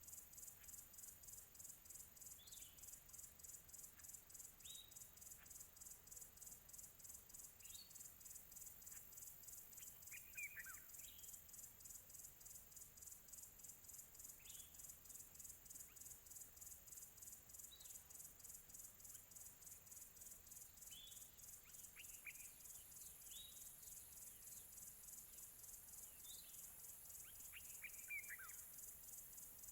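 Faint nature ambience: a steady, evenly pulsing high-pitched insect chorus like crickets, with scattered short bird chirps that fall in pitch. Two louder falling bird calls come about ten seconds in and near the end.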